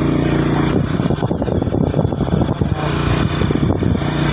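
Motorcycle engine running at a steady speed while being ridden, broken for about two seconds in the middle by an irregular rough, knocking noise.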